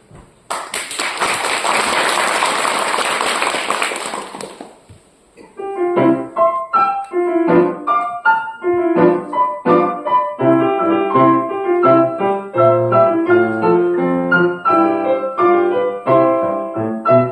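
A few seconds of audience clapping that fades out, then a piano duet for four hands begins: many quick, separate piano notes in a steady, lively rhythm, with low and high parts sounding together.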